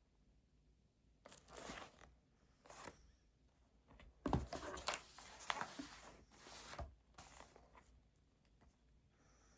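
Pencil scratching and rubbing on paper in short scattered strokes at a study desk, busiest in the middle, with a couple of soft knocks on the desk about four and seven seconds in.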